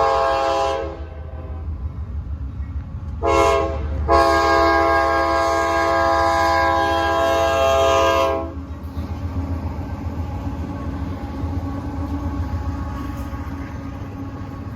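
Approaching freight locomotive's air horn. One blast ends about a second in; a short blast follows, then a long blast of about four seconds, the end of the long-long-short-long grade-crossing signal. The low rumble of the train runs throughout and continues after the horn stops.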